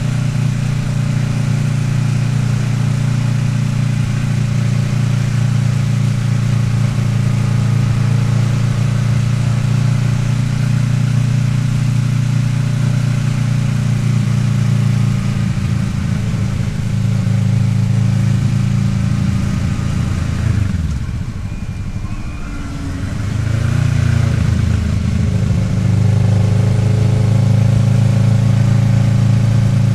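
Kawasaki Ninja 650R's parallel-twin engine running at a steady cruise with wind rush. About two-thirds of the way in, the engine note falls and quietens as the bike slows, then rises again as it accelerates back to a steady pull.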